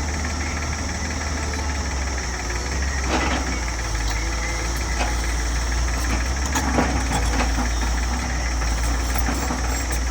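Tractor engine running steadily with a low, even drone. A few sharp knocks or clunks come through about 3, 5 and 7 seconds in.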